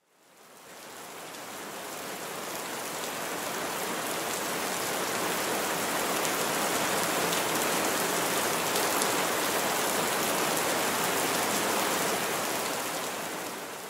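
Steady heavy rain falling on a car's windscreen and roof, heard from inside the cabin. It swells in over the first couple of seconds and fades near the end.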